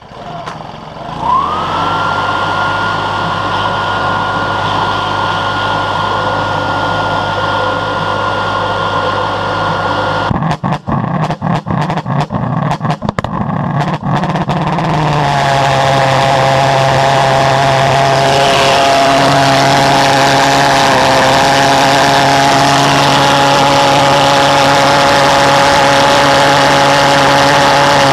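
Start-up of a homemade reed-valve pulse jet engine. A blower whines up in pitch and holds steady, then about ten seconds in the jet stutters and catches in fits. From about fifteen seconds it runs steadily with a loud, deep buzz.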